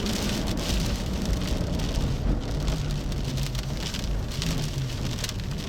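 Rain striking the outside of a storm chasers' vehicle in a dense, steady patter of drops. A low steady hum runs underneath.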